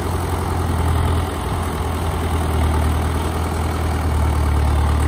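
Engine of a tracked rice-hauling tractor running under load with a steady low hum. It eases off about a second in, then picks up again as the machine pulls across a makeshift bridge.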